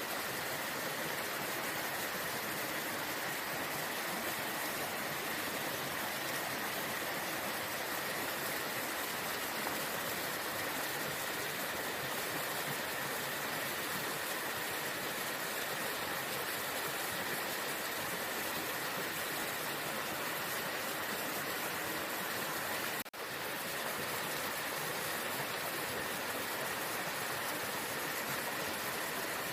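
Waterfall rushing in a steady, even roar of falling water. About three-quarters of the way through it cuts out for a split second and comes straight back, like an edit splice in the recording.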